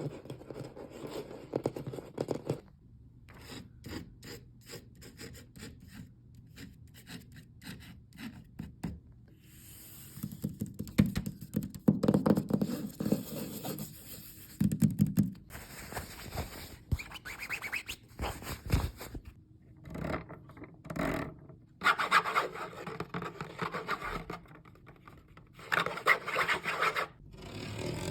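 Fingers tapping, scratching and rubbing on various objects as ASMR triggers: runs of quick taps and clicks, broken by louder stretches of scratching and rubbing.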